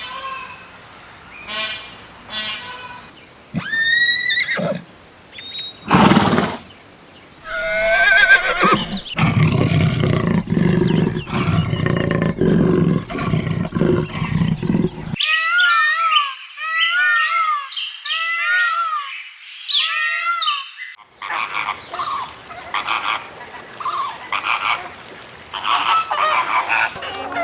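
Assorted farm animal calls in a sequence of separate recordings cut one after another, with a run of short, repeated high-pitched calls in the middle.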